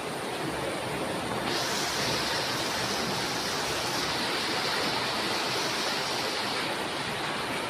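Heavy rain pouring down: a steady rushing hiss, which turns brighter and hissier about a second and a half in.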